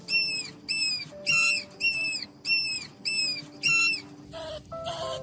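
A small animal giving a run of short, high-pitched chirping calls, about two a second, then a different, lower, rougher call near the end, over background music.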